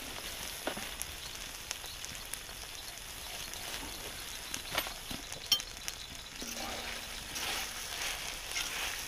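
Meat and rice frying in hot oil in a plow-disc pan over a wood fire: a steady sizzling hiss with a few light clicks. Near the end a utensil starts stirring in the pan.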